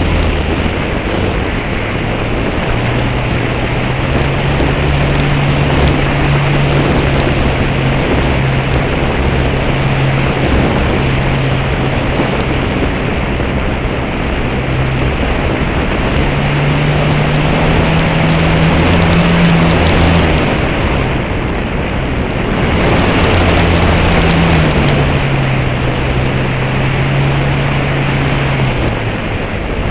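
Electric motor and propeller of an E-flite Cherokee 1.3m RC model plane, heard from an onboard camera: a steady drone under heavy wind rush over the airframe. The pitch rises with throttle a little past halfway, dips briefly, rises again, then settles lower near the end.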